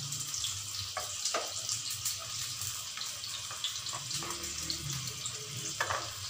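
Chicken, peppers and pasta sauce sizzling in a non-stick wok while a utensil stirs them, with a few short scrapes of the utensil against the pan.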